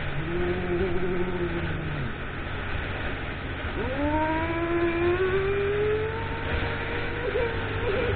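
Motorcycle riding over steady wind and road rumble. A brief engine note sounds near the start, then about four seconds in the engine pitch climbs steadily as it accelerates.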